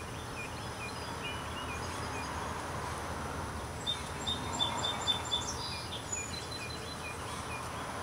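Songbirds chirping over a steady outdoor background hiss: runs of short high chirps near the start and near the end, and a quick series of about six louder high notes in the middle.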